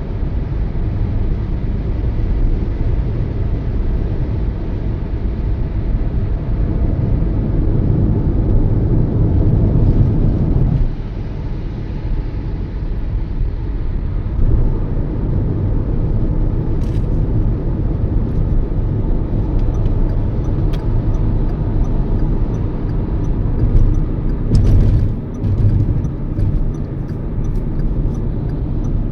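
Toyota Yaris driving at speed: a steady low rumble of road and engine noise, easing briefly about a third of the way in, with a few faint clicks in the second half.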